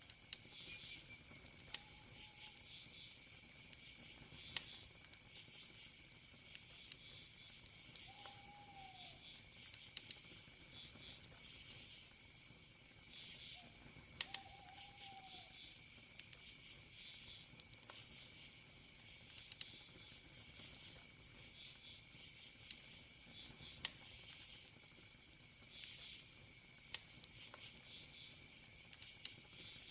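Campfire wood crackling, with sharp pops every few seconds, over steady chirping of crickets. A short call that rises and falls sounds three times in the first half.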